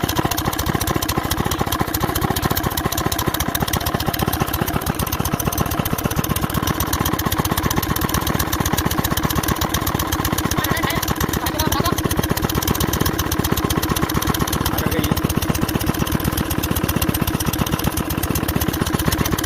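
8 hp diesel water pump engine running steadily, its firing strokes coming in an even, rapid chug.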